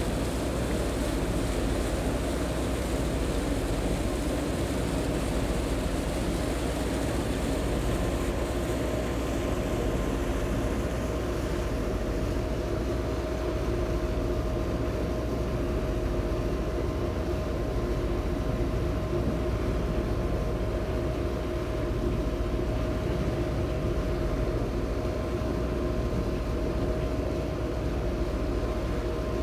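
Engines of the high-speed passenger boat Sun Liner 2 running steadily under way, heard on board as a constant drone with a steady hum. A higher hiss in the mix fades about ten seconds in.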